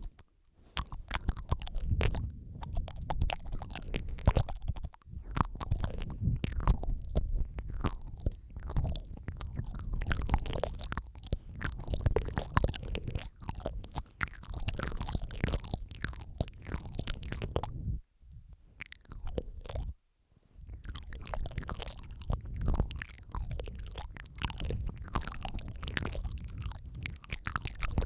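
Layered close-mic ASMR mouth sounds: dense, irregular wet clicks, smacks and licking sounds over a low rumble, with brief pauses about eighteen and twenty seconds in.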